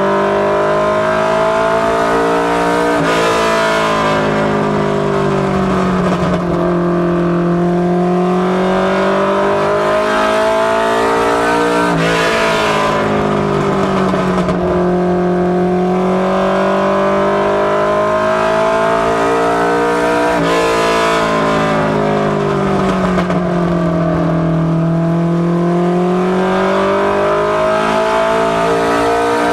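Ministock Mustang LX notchback race car's engine running hard at speed on practice laps. Its pitch drops and climbs again about three times, roughly every eight or nine seconds, as it comes off the throttle and then accelerates again once each lap.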